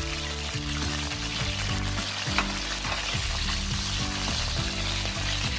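Potato chunks sizzling as they fry in hot oil in a wok, stirred with a wooden spatula, with one sharp knock a little past two seconds in.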